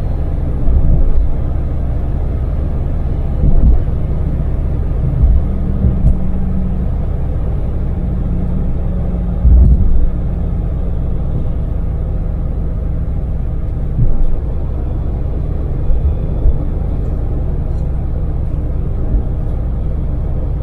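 Cabin sound of a Daewoo Damas LPG mini van's small three-cylinder engine and tyres at expressway speed: a steady low rumble with an engine hum. Brief louder low thumps come several times.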